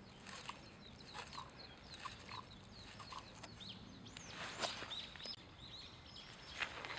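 Faint bird chirps, many short calls, mixed with a few sharp clicks and knocks, the loudest about four and a half seconds in. No engine is running.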